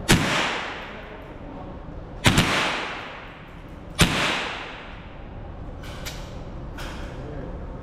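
Three gunshots about two seconds apart, each followed by an echoing tail. Fainter clicks follow a couple of seconds after the last shot.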